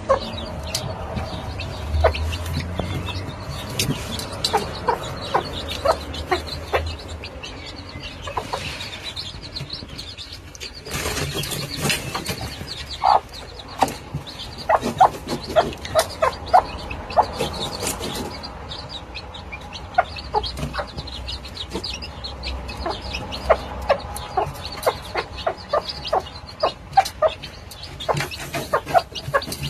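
Hen clucking among her feeding chicks, with many short, sharp calls and taps scattered throughout.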